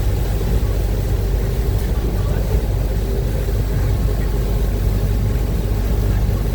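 Steady low rumble of a river-bus catamaran's engines running at cruising speed, with the rush of water and air over it.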